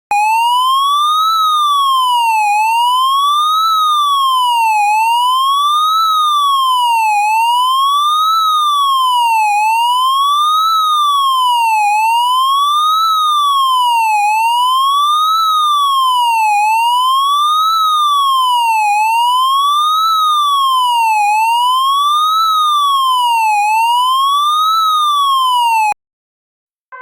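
Police siren sounding a loud wail, its pitch sweeping evenly up and down a little more than once every two seconds. It cuts off suddenly about a second before the end.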